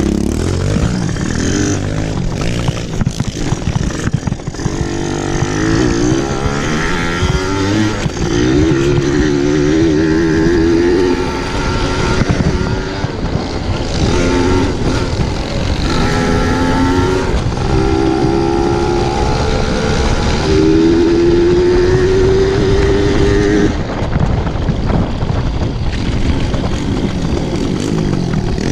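Pit bike engine running hard as it is ridden, its pitch climbing again and again and holding between climbs, over steady wind and rumble noise.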